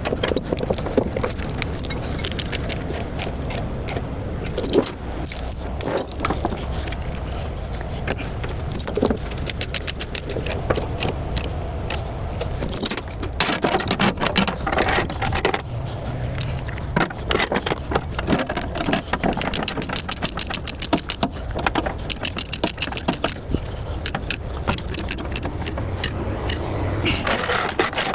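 Steel tie-down chains rattling and clinking as they are handled and pulled tight, many sharp metallic clinks in quick succession, over a low steady rumble.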